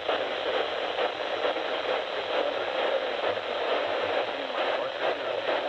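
Radio receiver static: a steady hiss confined to the radio's narrow audio band.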